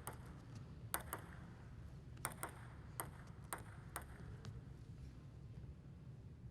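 Table tennis ball clicking sharply against rackets and table in a short exchange, about seven hits roughly half a second apart. The clicks stop about four and a half seconds in, over a faint low hall hum.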